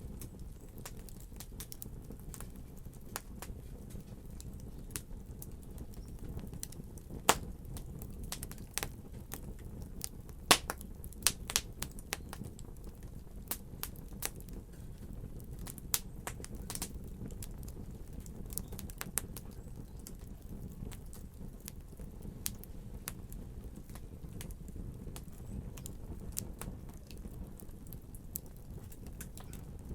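Wood fire burning in a fireplace: a steady low rush of flame under irregular crackles and sharp pops, with the loudest pops about seven, ten and eleven seconds in.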